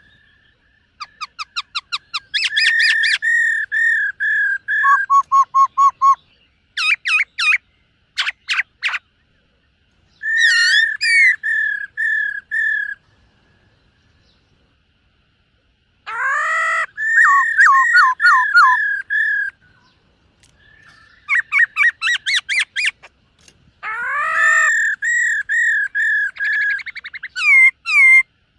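Black-throated laughingthrush singing: loud phrases of rapidly repeated whistled notes, some steady, some sweeping up and down, separated by short pauses and one longer silence about halfway through.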